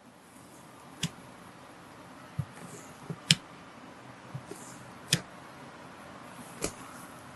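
Slime being handled by hand, giving short sharp clicks and pops: four loud ones about every one and a half to two seconds, with a few fainter ones between, over a faint steady hiss.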